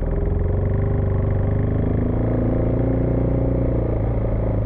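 Husqvarna Vitpilen 401's single-cylinder engine running under way, its pitch rising slightly and then holding steady.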